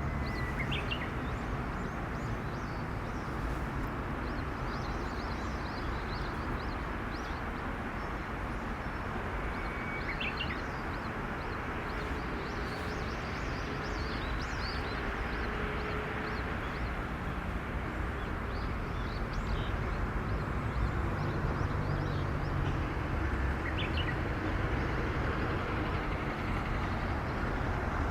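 Steady rain falling, a constant rushing hiss, with a bird chirping briefly a few times.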